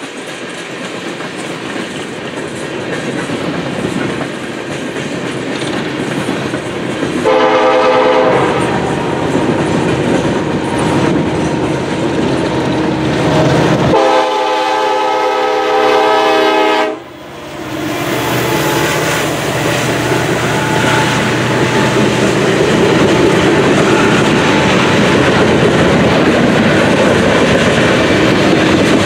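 Freight trains rolling by with a steady wheel rumble and clatter. A diesel locomotive horn sounds a short blast about seven seconds in and a longer blast of about three seconds near the middle. After it the rumble grows louder and fuller as a second freight train passes close by on the near track.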